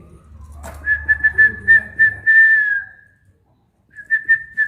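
A high whistled call: a quick run of short notes at one steady pitch, ending in a longer note that slides down. It stops briefly and starts again near the end.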